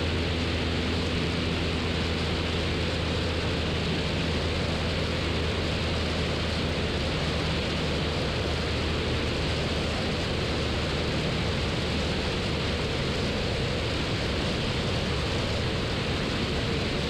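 Cabin noise of a Cessna 172 in flight: the steady drone of its four-cylinder Lycoming engine and propeller under a constant rush of wind and airflow.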